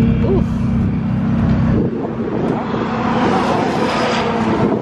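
Supercar engines running in a pit lane: a low, steady engine rumble that drops away about two seconds in, then a rushing noise that builds near the end.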